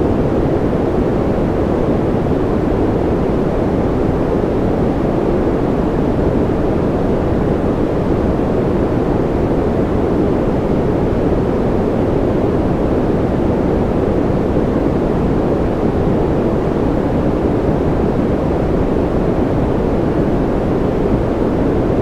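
Steady generated sleep noise, sold as white noise, unchanging throughout. Its weight lies in the lows and fades towards the top, so it sounds deep and rushing rather than hissy.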